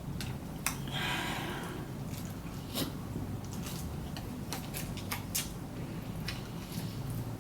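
Close-up eating sounds of spicy instant ramen noodles being slurped and chewed, with scattered sharp clicks.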